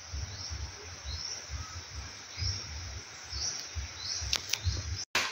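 A bird calls a short, high chirp, falling in pitch, over and over about once a second, over low rumbling on the microphone. A few sharp clicks come near the end.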